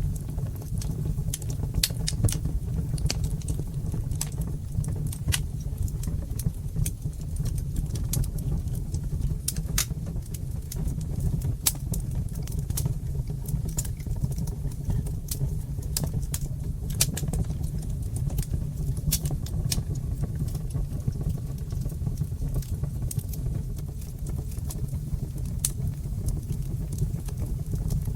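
Wood fire burning in a fireplace: irregular sharp crackles and pops over a steady low noise of the flames.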